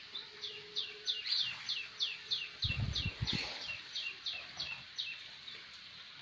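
A small bird singing a run of about fifteen short notes, each falling in pitch, about three a second, over a faint steady hiss of rain. A few low thumps come around the middle.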